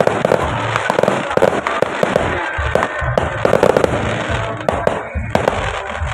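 Fireworks: aerial shells bursting in a dense run of sharp pops and crackles, with deeper thumps among them, thinning out near the end.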